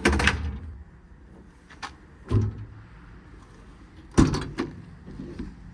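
Tool drawers and a compartment door on a mechanic's service-truck body being handled and shut: a series of knocks and clunks, the loudest a sharp bang about four seconds in.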